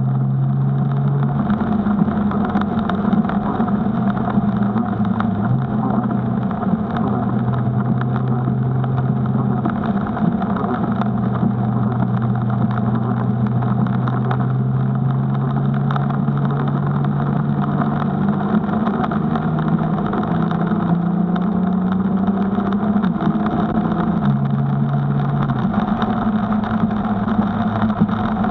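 Nissan GT-R's twin-turbo V6 heard from inside the cabin on wet track laps, running at part throttle over a steady hiss of rain and tyre spray. Over the second half the engine note climbs in pitch as the car accelerates, with a couple of sudden drops in pitch.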